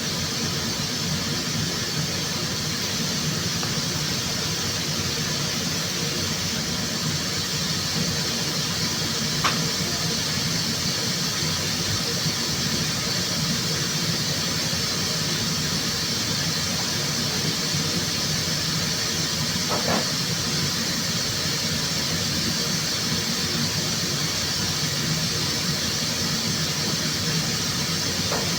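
Steady air hiss with a low hum from body-shop air equipment during a car repaint, broken by three faint clicks.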